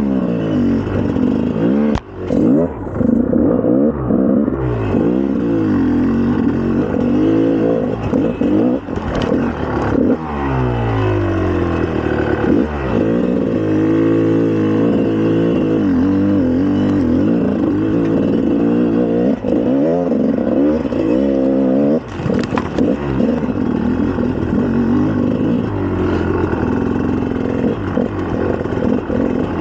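2004 GasGas EC300's single-cylinder two-stroke engine revving up and down as the dirt bike is ridden, its pitch climbing and falling again and again. The engine sound drops briefly about two seconds in and again about twenty-two seconds in.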